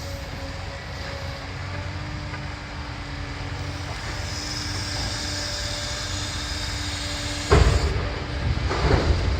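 Demolition machinery running with a steady drone and a held hum. About three-quarters of the way in, building debris crashes down loudly, and more rubble clatters down near the end.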